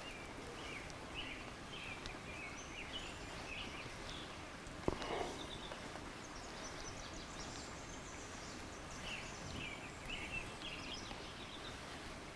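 Faint outdoor background with a bird chirping in short, irregular notes, in two spells at the start and again near the end. One sharp tap about five seconds in.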